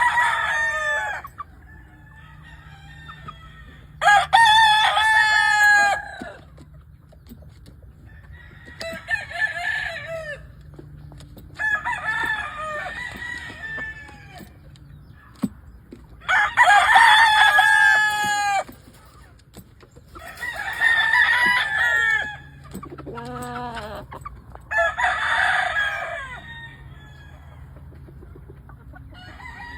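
Game fowl roosters crowing one after another, about eight crows each lasting one to two seconds, a few seconds apart, with a lower-pitched call a little past the middle.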